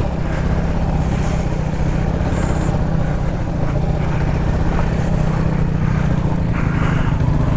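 Kawasaki KLR650's single-cylinder four-stroke engine running steadily on a trail ride, with even road noise underneath.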